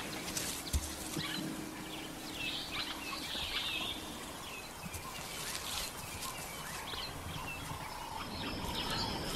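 Outdoor bush ambience: scattered bird chirps and calls over a faint steady hiss, with a soft low thump about a second in. Near the end a steady insect trill sets in.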